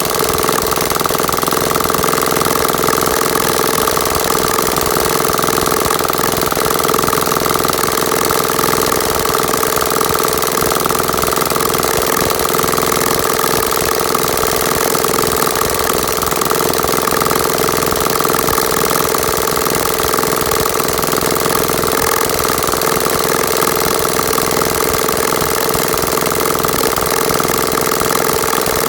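Engine running steadily at a constant speed, with a rapid even chugging.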